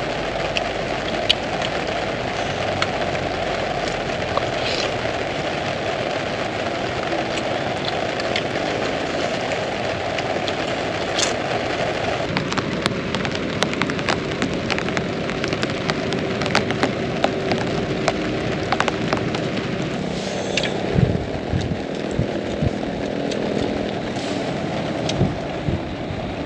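Heavy rain falling steadily, with many scattered sharper drop hits through the steady hiss.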